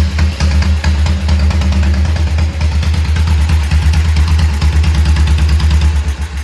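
A restored 1951 Horex Regina motorcycle's single-cylinder four-stroke engine idling steadily with a rapid, even exhaust beat, dropping away right at the end.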